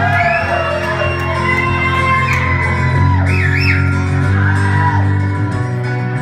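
Live acoustic band playing an instrumental passage: sustained low notes under wavering, gliding high-pitched lines, with the echo of a large hall.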